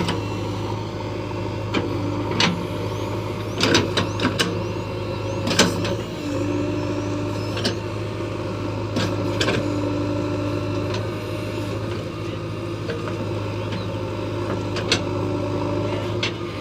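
JCB 3DX backhoe loader's diesel engine running steadily under work, with a held whine that comes and goes and a scatter of sharp metallic knocks, most of them in the first half.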